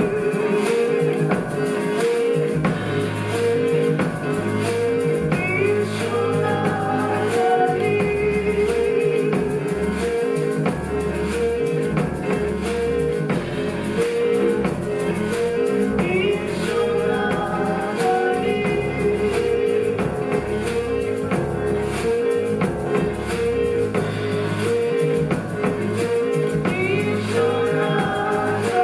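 Live music from a seven-piece ensemble: a short figure repeating evenly over sustained bass notes, with plucked strings and gliding higher melodic lines.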